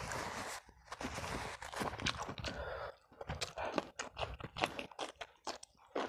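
Close-up chewing and crunching of food, with many short wet mouth smacks and clicks. About four seconds in, a raw green chili is bitten and chewed.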